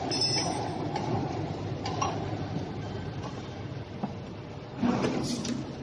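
CNC press brake running with a steady mechanical rumble, a bright metallic clink right at the start and a louder clatter about five seconds in.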